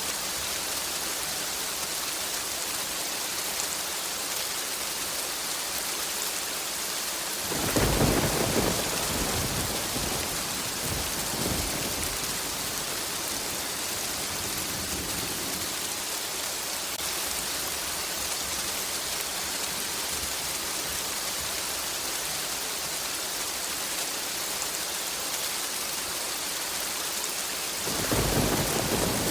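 Steady rain hissing throughout, with a roll of thunder about a quarter of the way in that rumbles for several seconds before fading, and a second rumble of thunder starting near the end.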